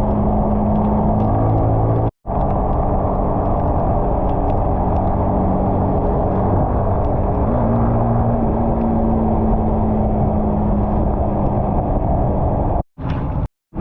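Motorcycle engine running at a steady speed while riding, under a loud rushing noise. The engine note steps up slightly about halfway through. The sound cuts out briefly about two seconds in and again near the end.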